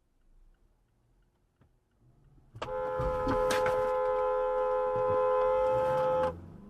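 Car horn blown in one long steady blast of about four seconds, starting suddenly a little over halfway in and cut off abruptly, with a couple of short knocks near its start.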